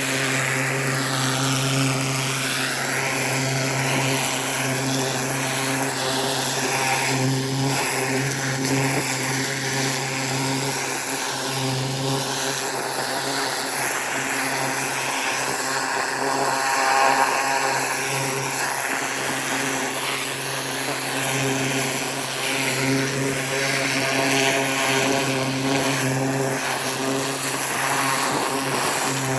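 A 4200 psi pressure washer running steadily, its motor giving a constant low hum. Over the hum, the rotating nozzle's jet hisses against soil and leaves, the spray sound changing as the wand is moved around.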